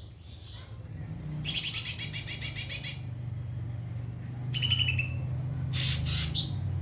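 White-rumped shama singing: a fast rattling trill, then a short falling trill and a sharp burst of rising notes near the end, over a steady low hum.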